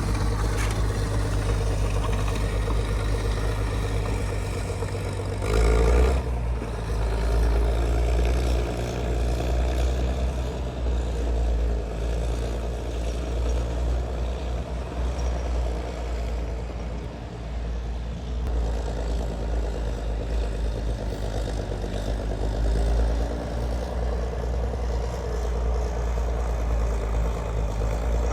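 A vehicle engine running steadily, with a brief louder surge about six seconds in.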